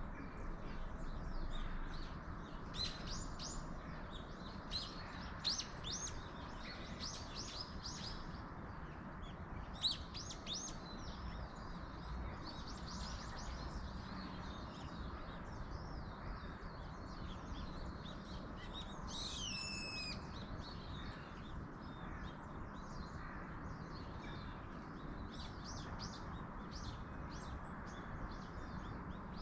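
Small wild birds chirping and trilling in quick bursts, with one clear falling call partway through, over a steady low rushing background of wind in the trees.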